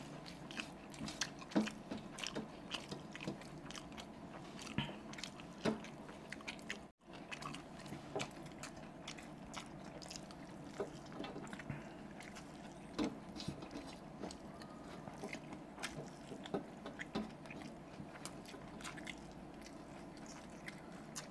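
Close-miked eating of chowmein noodles: chewing and biting with many small, irregular mouth clicks and crunches.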